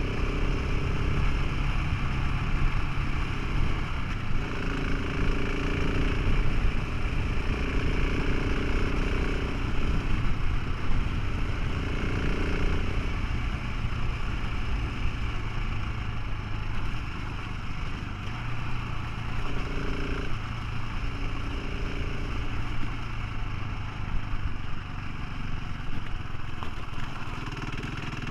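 Motorcycle engine running while riding along, a steady low hum with a higher engine tone coming and going every few seconds, over a steady noisy rush.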